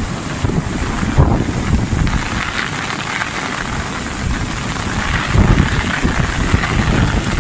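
Storm wind and heavy rain: a loud, steady rushing hiss with irregular low rumbles of wind buffeting the microphone.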